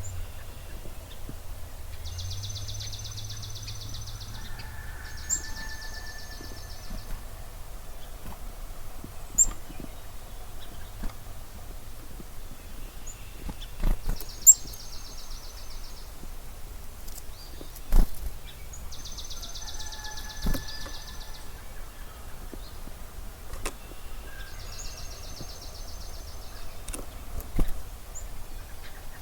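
Dawn birdsong over a marsh: a songbird repeats a high, even trill lasting a second or two, five times, while another bird gives a held whistled note twice. A few sharp clicks or knocks stand out, the loudest about halfway through.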